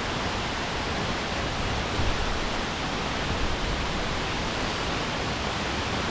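Henrhyd Falls, a high waterfall, roaring steadily: a continuous even rush of falling water.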